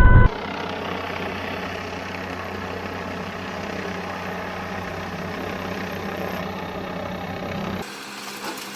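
A car horn cuts off just after the start. A vehicle engine then runs with a steady, even hum, with some road or traffic noise, until it changes abruptly near the end.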